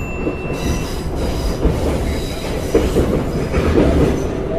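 Subway train running, a steady low rumble with wheel and track noise; a thin high tone stops just under a second in.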